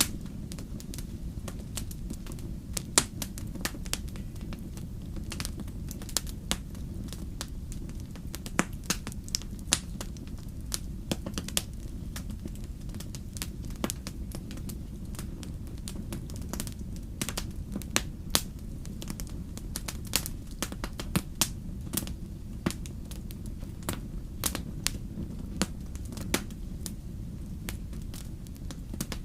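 Wood fire in a fireplace crackling, with sharp pops at irregular intervals, several a second at times, over a steady low rumble.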